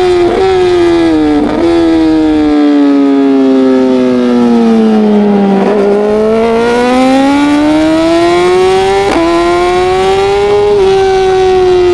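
Racing motorcycle engine running at high revs. Its pitch sinks steadily for about six seconds, then climbs back up, with brief blips near the start and about nine seconds in.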